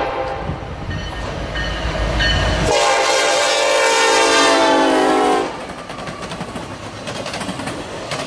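Norfolk Southern GE AC44C6M diesel locomotive passing close with a heavy low rumble, then sounding its horn in one steady blast of about two and a half seconds, starting about three seconds in. After the horn stops, intermodal freight cars roll past with a clickety-clack of wheels on rail joints.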